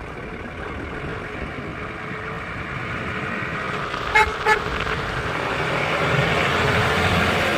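Motor vehicle running, its engine noise slowly growing louder, with two short horn toots a moment apart about halfway through.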